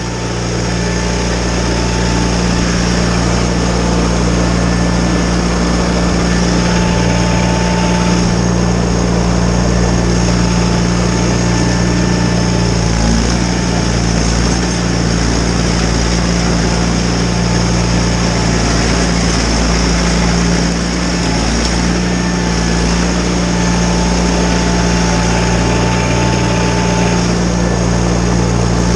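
John Deere 318 garden tractor's Onan twin-cylinder engine running steadily while driving a front-mounted Model 49 snowblower, with a brief dip in level about two-thirds of the way through.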